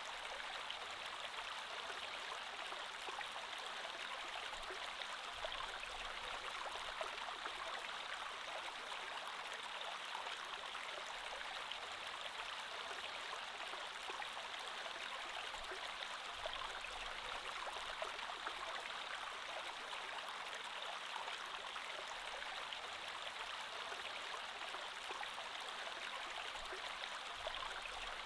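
Creek water flowing steadily over stones, a constant rushing babble with small splashes and trickles.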